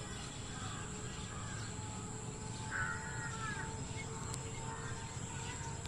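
A single loud bird call, just under a second long, about three seconds in, with fainter calls earlier, over steady outdoor background noise.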